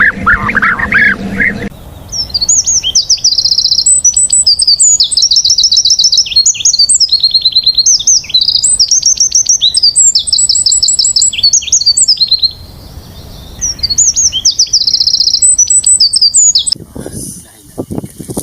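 A songbird singing a loud, high-pitched song of fast trills and rapid repeated notes, in phrases with a short pause about two-thirds through. For the first second or two a lower-pitched bird call is heard, cut off abruptly. Near the end there are a few low thuds.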